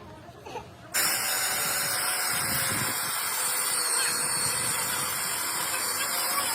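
A loud steady hiss starts abruptly about a second in and keeps going evenly, with a faint steady tone beneath it.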